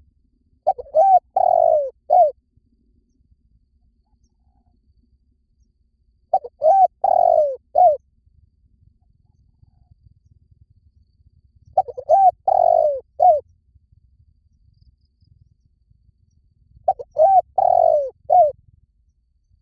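Spotted dove calling: four phrases of about four short coos each, the third coo the longest, repeated about every five seconds.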